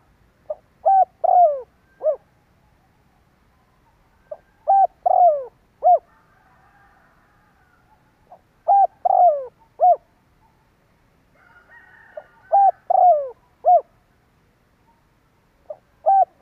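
Spotted dove cooing: short phrases of three or four coos, the last ones falling in pitch, repeated about every four seconds, four full phrases with a fifth starting at the end. Faint chirping of other birds shows between phrases.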